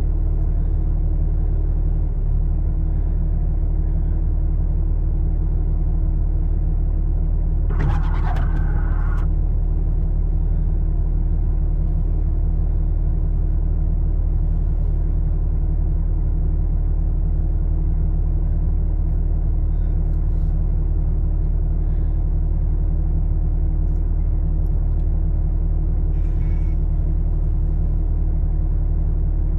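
Vehicle engine idling steadily, a constant low rumble. About eight seconds in there is a brief scrape.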